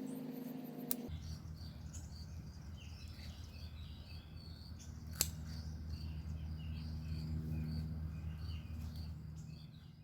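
Small birds chirping over a steady low hum, with a sharp click about a second in and another near the middle.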